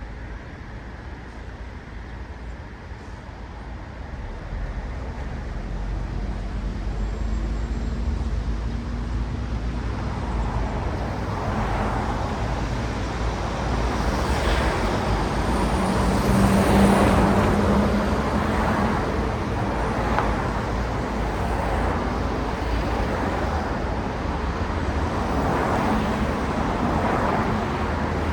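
Road traffic, a stream of cars passing. It grows louder after a quieter first few seconds, and the loudest vehicle goes by about two-thirds of the way through with a steady engine hum under the road noise.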